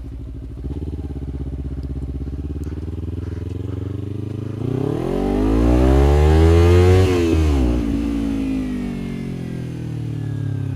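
Kawasaki Ninja 300's parallel-twin engine running at low revs, then revving up over a couple of seconds, loudest about seven seconds in, before easing back down.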